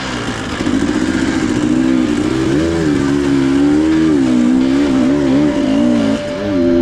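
Two-stroke dirt bike engine running on the trail, its pitch rising and falling again and again as the rider works the throttle.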